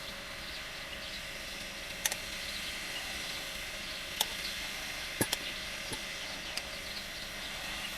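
A handful of short, sharp clicks and knocks of tools and parts being handled while a small two-stroke moped engine is taken apart, a few seconds apart, over a steady background hiss.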